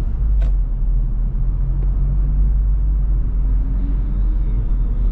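2025 Honda Civic Type R's turbocharged four-cylinder engine heard from inside the cabin while driving slowly, a steady low engine and road rumble. A faint engine tone rises a little in pitch over the last couple of seconds, and there is a single click about half a second in.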